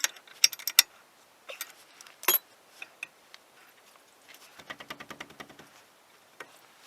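Hand ratchet wrench clicking in short runs of quick, evenly spaced ticks, with a single sharper metallic knock about two seconds in.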